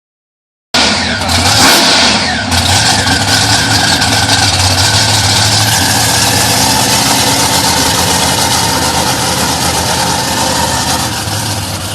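Loud vehicle engine running, louder and harsher in the first couple of seconds, then holding steady.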